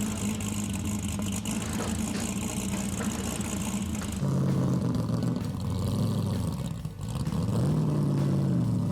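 Muscle car engines running. About four seconds in the engine note changes and grows louder. Near the end it drops briefly, then rises as a car accelerates.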